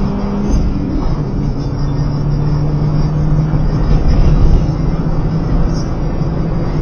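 In-cabin engine and road noise of a BMW E36 318i's M40 1.8-litre four-cylinder, accelerating under load up a hill. Faint music plays underneath.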